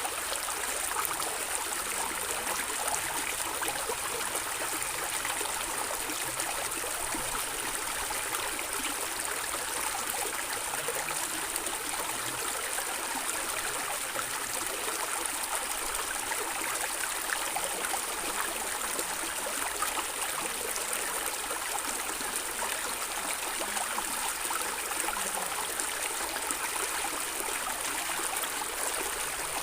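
Stream of water running and gurgling steadily, a continuous rushing with fine splashing and no pauses.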